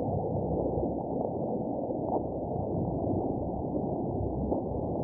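Steady hiss and crackle of static from a medium-wave AM radio tuned to a weak, distant station on 1476 kHz, muffled and thin as in narrow receiver audio. No clear voice comes through the noise.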